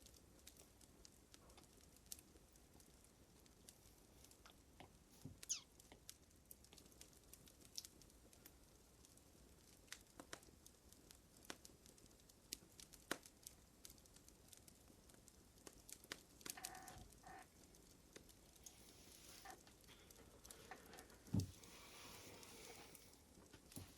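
Faint crackling fire: irregular small pops and snaps, scattered unevenly. A louder dull thump comes near the end.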